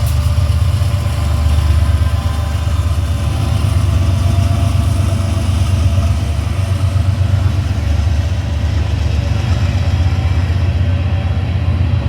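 Diesel locomotive engine running with a loud, steady low rumble and a faint engine hum above it; it starts abruptly.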